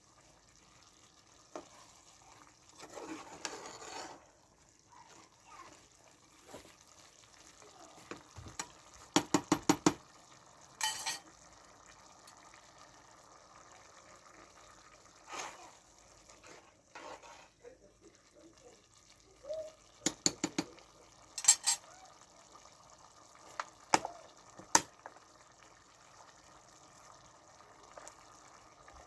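A utensil stirring and tapping against a cooking pot: several runs of quick, sharp clinks with quieter stirring between, over a faint steady hiss.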